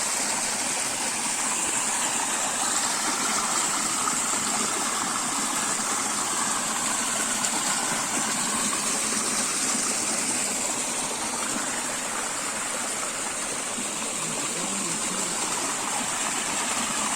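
Small forest waterfall pouring, a steady rush of water with a constant high hiss over it.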